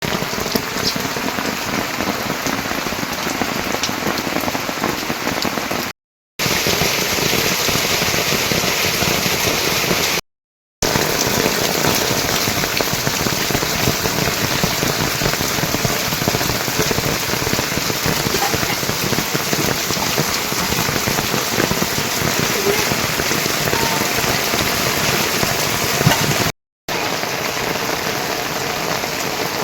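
Steady, heavy rain pattering on surfaces. It cuts out suddenly for a moment three times, about six, ten and twenty-six seconds in.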